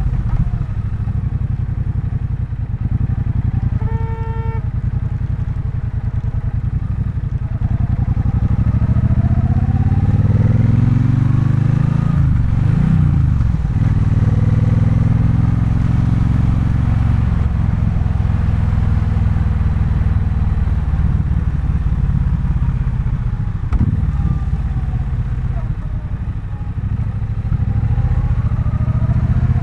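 Triumph Bonneville Bobber's 1200 cc parallel-twin engine running on the move. Its pitch rises repeatedly as the bike accelerates and drops again between pulls. A short, steady beep comes about four seconds in.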